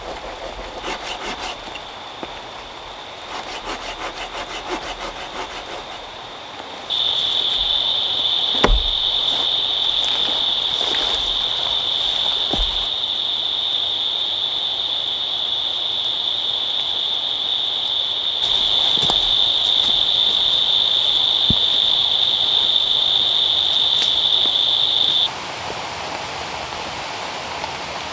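Rainforest insects droning at one steady high pitch, much louder for a long stretch in the middle that starts and stops abruptly, with a few sharp knocks.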